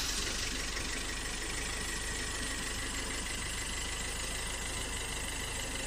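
A motor running steadily at an even pace.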